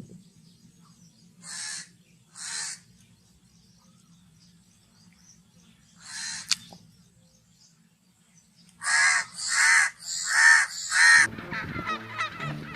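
Crow cawing: two harsh caws, a third after a pause, then a run of four louder caws. Near the end a different bird call begins.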